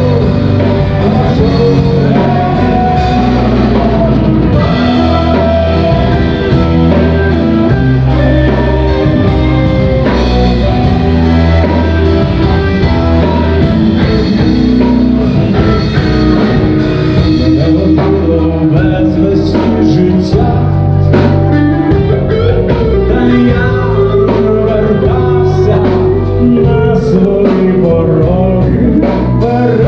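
Rock band playing live: a singer over guitars, bass and drum kit, loud and steady.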